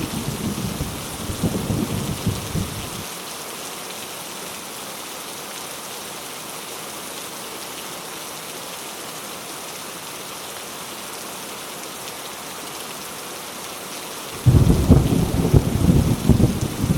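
Heavy rain falling steadily with thunder. Low rumbling thunder fills the first three seconds and stops abruptly, leaving only the hiss of the rain. A loud new rumble of thunder starts suddenly about fourteen seconds in.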